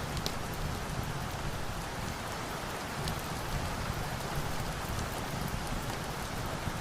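Steady rain, an even hiss with a low rumble under it, with a few faint, sharp ticks scattered through.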